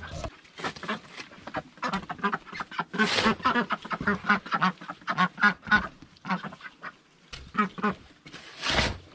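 Domestic ducks quacking, a steady run of short repeated calls, with louder, harsher sounds about three seconds in and again near the end.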